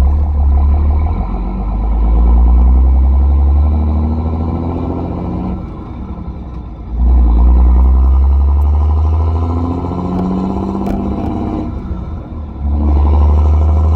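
2005 Dodge Ram 2500's 5.9-litre Cummins turbo diesel pulling under load while driving, with a deep drone. Its pitch climbs three times, with the level dropping briefly before rising again about six seconds in and again near the end.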